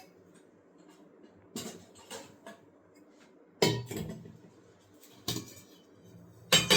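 A spoon and metal kitchen dishes clinking and knocking together about six times while ingredients are spooned into a mixing bowl. The last clatter, near the end, is the loudest and leaves a brief metallic ring.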